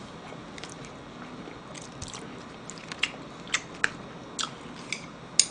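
Close-miked chewing of food, with short wet mouth smacks and clicks at uneven intervals, about two a second, starting after a quiet second or two.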